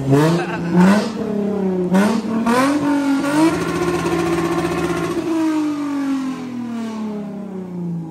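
Pontiac GTO's V8 engine revving in a few quick blips, then held high for a moment before slowly winding down.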